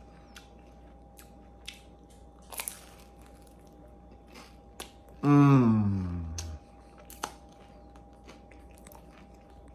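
Close-up chewing of a slice of pizza, with scattered small clicks and crunches of the crust. About five seconds in comes a loud hummed vocal sound, sliding down in pitch over a little more than a second.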